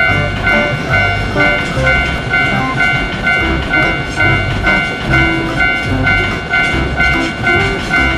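Japanese railway level-crossing warning bell ringing steadily at about two dings a second, over background music with a bass line.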